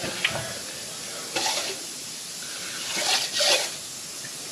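Handling of engine parts: a sharp metallic click about a quarter second in, then two short bouts of scraping and rustling.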